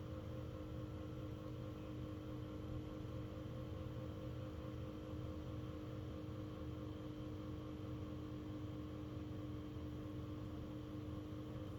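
Rovin's 12V portable ceiling fan running, a steady motor hum with a held whine over a low rumble. This is the bit of noise the new fan makes.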